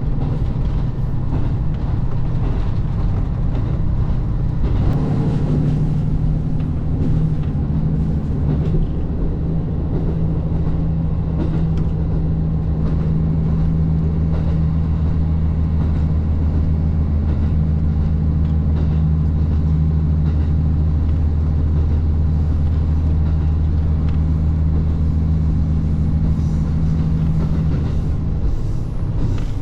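Diesel railcar engine running steadily, with a deep hum; its note shifts slightly about five seconds in.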